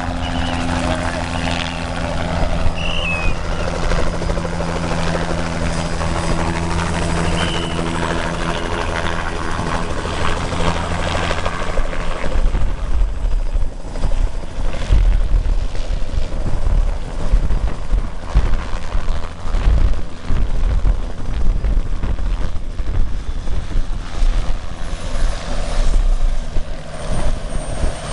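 Helicopter running, with a steady engine hum that about twelve seconds in gives way to an uneven low rumble.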